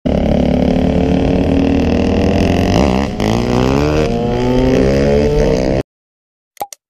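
Dirt bike engine running hard at speed, its pitch dipping and climbing again about three seconds in. It cuts off abruptly near the end and is followed by a short pop.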